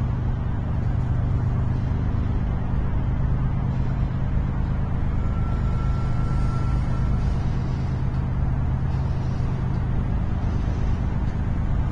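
BNSF freight train rolling past with a steady, loud, low rumble and hum. A thin high squeal sounds for about two seconds, starting about five seconds in.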